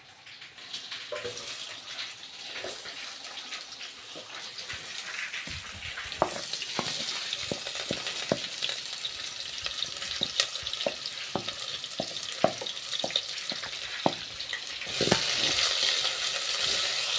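Onions frying in hot oil in a pan, a steady sizzle that builds and is loudest near the end, with frequent sharp clicks of a spoon stirring against the pan.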